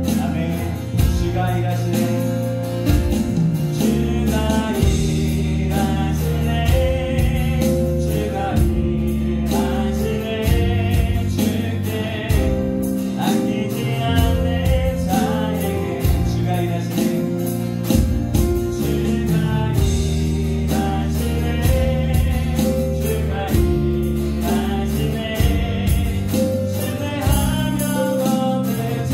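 Live worship band playing a contemporary praise song: acoustic guitar, keyboard, bass guitar and electronic drums keeping a steady beat, with voices singing at times.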